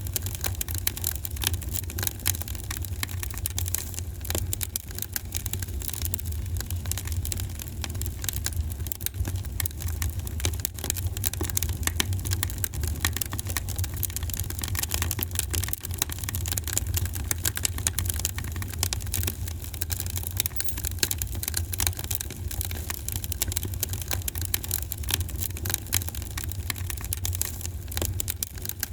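Wood fire in a fireplace crackling: a continuous stream of small pops and snaps over a steady low rumble.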